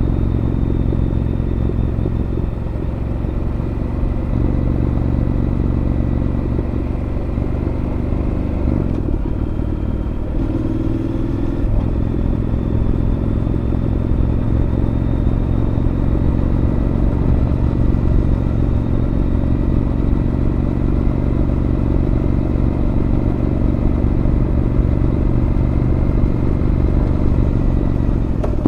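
Honda NC750X parallel-twin engine and Moriwaki aftermarket exhaust running steadily under way, heard much as from inside the rider's helmet. The engine note dips and shifts briefly about nine seconds in, then runs steady again.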